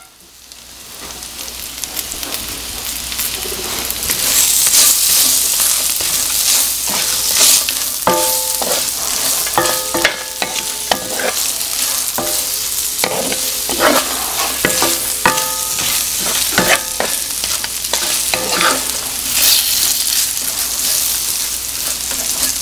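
Chicken pieces and garlic sizzling in hot oil in a skillet, the sizzle swelling over the first few seconds and then holding steady. A wooden spatula stirs and scrapes the chicken across the pan, with short scraping squeaks and knocks.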